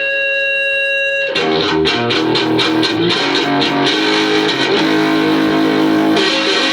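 Electric guitar playing blues-rock: a held note rings for about a second, then gives way to a run of quickly picked notes over lower notes, settling into sustained notes near the end.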